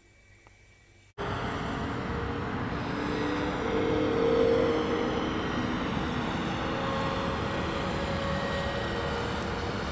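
A loud, steady rushing noise with faint, slowly drifting tones cuts in abruptly about a second in and swells slightly around the middle.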